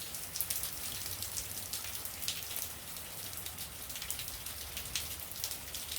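Steady rain falling, with many sharp separate raindrop ticks over an even hiss.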